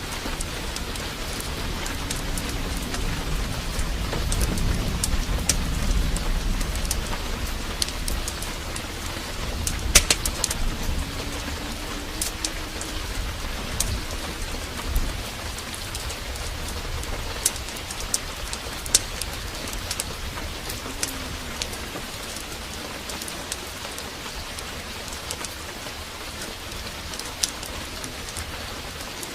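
Steady heavy downpour of rain, with a low rumble of thunder swelling about four to seven seconds in and scattered sharp pops and crackles, the loudest about ten seconds in.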